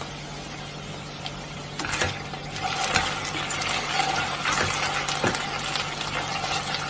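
Taro root strips sizzling in a nonstick kadai while being stirred with a slotted spatula. There are scraping sounds and a few sharp clicks of the spatula against the pan from about two seconds in.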